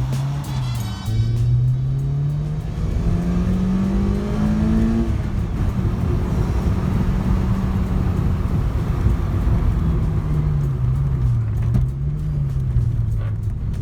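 Sports car engine accelerating hard, its pitch climbing steadily for about four seconds, then holding level at speed and easing up and down near the end.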